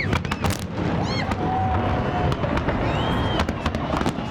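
Fireworks bursting: a string of sharp bangs at irregular intervals, with a few high whistling glides between them.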